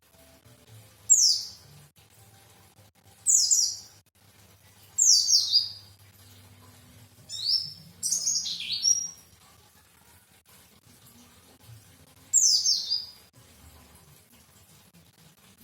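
White-eye (pleci) singing: about six short bursts of high, quickly falling notes a couple of seconds apart, one of them longer a little past the middle.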